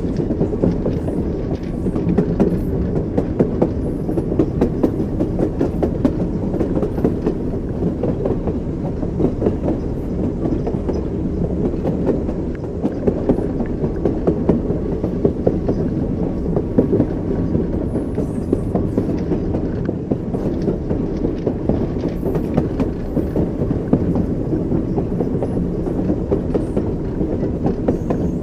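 Train wheels running over rail joints, clickety-clack with a steady low rumble from the moving railway carriage.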